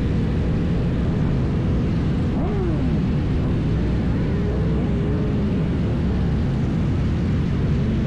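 Motorcycle riding noise: a steady low rumble with several engine or motor pitches rising and falling.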